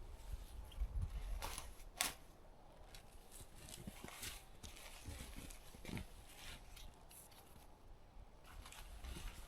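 Footsteps crunching in snow, a few separate crunches spaced irregularly.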